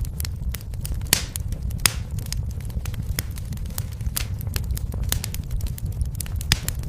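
Fireplace fire crackling, with frequent irregular sharp pops over a steady low rumble; a few louder pops come about one and two seconds in.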